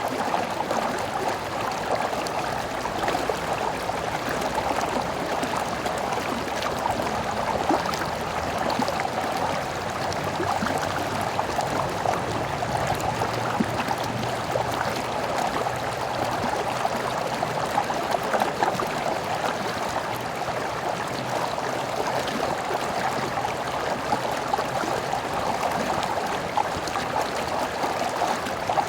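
A stream flowing steadily: a constant, even rush of running water with fine splashing throughout.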